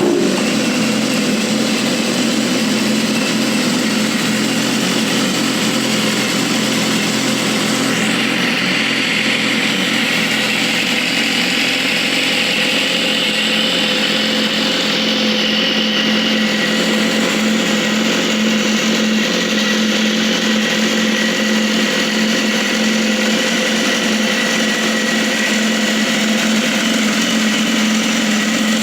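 Motorcycle engine idling steadily at an even speed.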